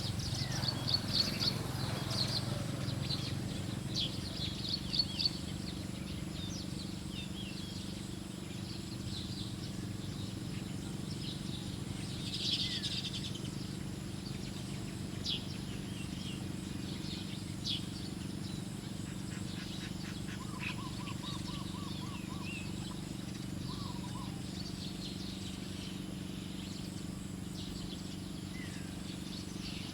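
Wild birds chirping: short high calls scattered throughout, most frequent in the first few seconds, with a brief lower rapid trill about two-thirds of the way through, over a steady low background hum.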